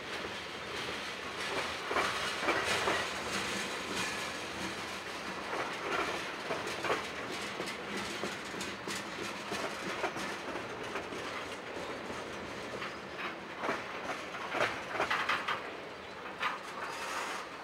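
Loaded tank cars of a freight train rolling past: a steady rolling noise of steel wheels on rail, broken by an irregular run of clacks and knocks as the wheels cross rail joints, busier near the end.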